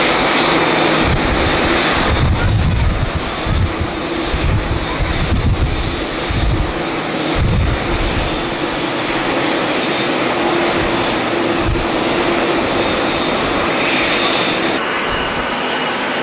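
Jet airliner's engines running as it passes the airport, a steady loud rush with a faint whine. Gusts of wind buffet the microphone in the low end.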